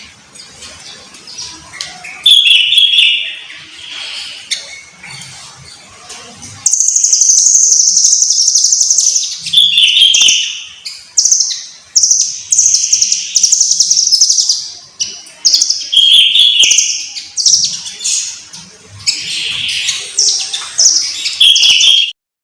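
Nuthatch singing: high-pitched, rapid trilled notes in repeated bursts. A short loud phrase comes about two seconds in, then a long trill from about a third of the way through, followed by a string of bursts about a second each. The song cuts off abruptly near the end.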